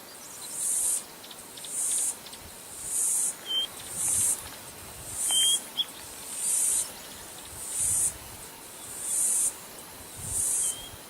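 An insect calling in high-pitched, evenly spaced pulses, about one every second and a bit. A bird gives a few short chirps over it.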